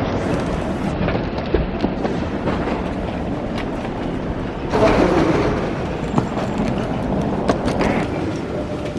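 Steady rumbling noise of a moving vehicle, with scattered clicks and a louder rush about five seconds in.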